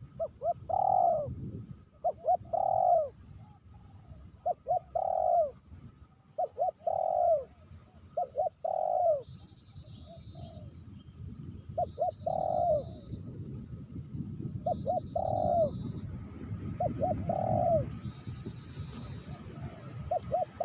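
Spotted doves (tekukur) cooing: a repeated phrase of two or three short notes followed by a longer rolling coo, about every two seconds. In the second half a higher-pitched call comes four times, about three seconds apart.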